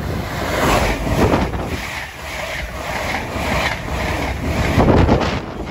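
LNER Azuma high-speed train passing close by at speed: a loud rush of wheels on rail and air as the coaches go by, swelling and easing in a repeating beat, with the loudest surge about five seconds in.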